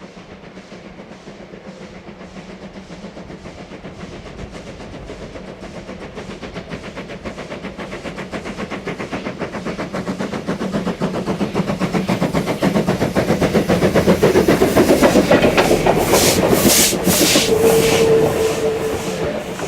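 Steam locomotive approaching under power, its rhythmic exhaust beats and running gear growing steadily louder until it passes close by, with a burst of hissing strokes and a short steady tone near the end.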